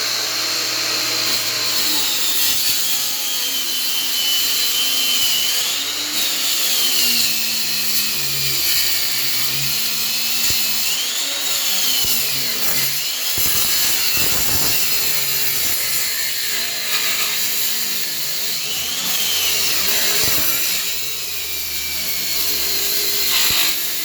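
Angle grinder with a diamond disc cutting a chase into a wall, wetted with a little water. A continuous high whine that sags and recovers several times as the blade bites into the wall under load.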